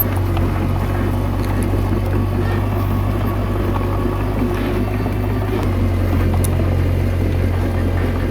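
Komatsu D21A bulldozer's diesel engine running steadily under work, a low, even drone with a slight change in its hum about five and a half seconds in.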